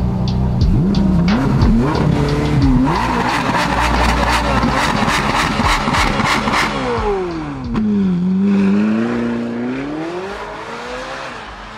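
A tuned car's engine revving hard, with a rapid run of sharp cracks through the middle; then the engine note drops and climbs again.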